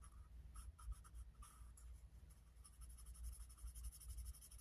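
Faint scratching of a pen on paper, colouring in a space on a challenge sheet in quick, short, repeated strokes.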